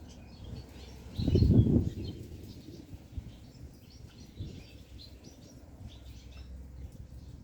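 Small cage birds, European goldfinches, chirping and twittering in short calls. About a second in comes a brief, louder low rustling thump.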